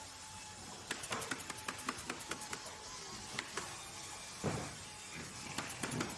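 Workshop or factory working sounds: a fast run of sharp clicks about a second in, then scattered knocks and one heavier thump past the middle, over a steady background hum.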